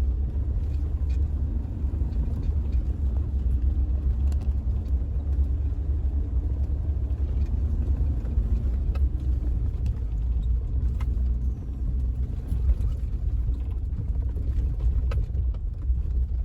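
A steady low rumble with faint scattered ticks, cutting off suddenly at the end.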